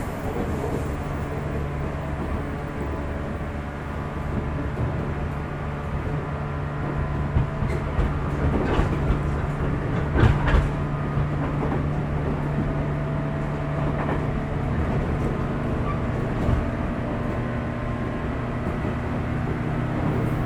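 Running sound inside the motor car of a 415 series electric multiple unit: a steady hum from the traction motors and gearing over track rumble. Wheels clack over rail joints several times in the middle, then once or twice more later.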